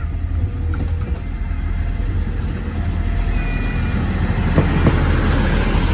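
A train approaching: a low rumble that grows steadily louder, with wheel clicks over the rail joints starting a little past halfway.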